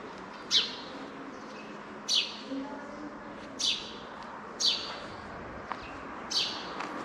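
A small bird chirping repeatedly: five short, sharp calls, each sweeping down in pitch, about one to one and a half seconds apart, over a steady low background noise.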